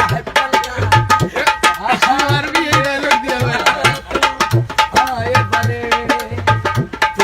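A voice singing a melodic song over hand-drum beats and a quick run of sharp clicking percussion.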